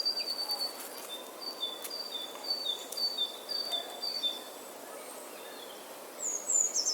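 Birdsong: short high whistled notes repeated about twice a second, alternating between two pitches, over a soft steady outdoor hiss. Near the end come a few quick falling high notes.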